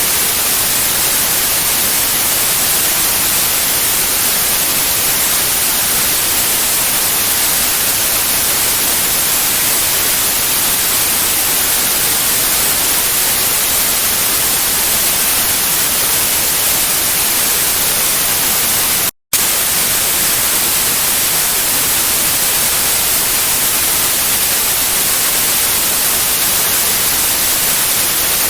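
Steady white noise, an even hiss strongest in the high end. It cuts out for a split second about two-thirds of the way through, then resumes.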